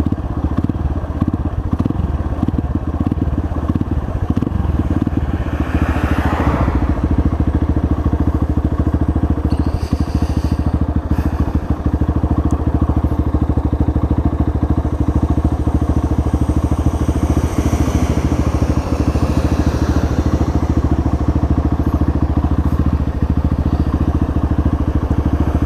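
Apollo dirt bike engine running steadily while being ridden.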